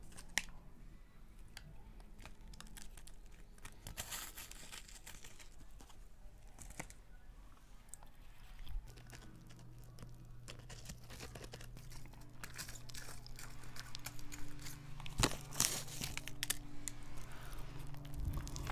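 Plastic lollipop wrapper crinkling and tearing as it is unwrapped, in many small irregular crackles.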